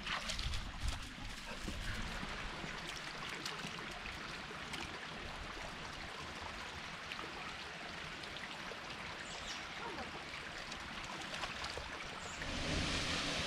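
River water running steadily in a continuous rushing hiss, growing louder and brighter near the end.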